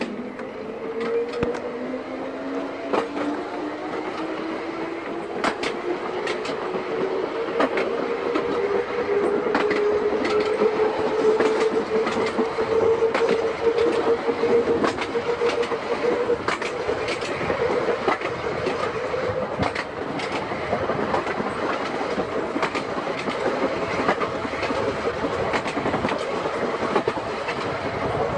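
Seaton Tramway electric tram under way: its motor whine climbs steadily in pitch for about the first fifteen seconds as the tram picks up speed, then holds steady. Over the running noise, the wheels click irregularly over the rail joints.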